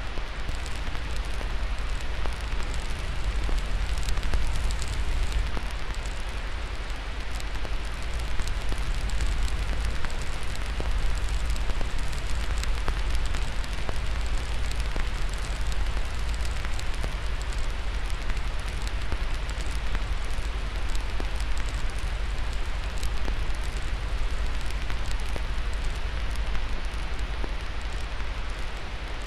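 Crackling fire laid over steady white noise: an even hiss with frequent small pops and crackles scattered through it, and a deep steady rumble underneath.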